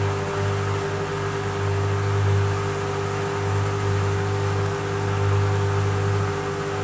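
Washing machine in its final spin, the motor and drum running steadily as the spin ramps up, with a low hum that swells and dips irregularly.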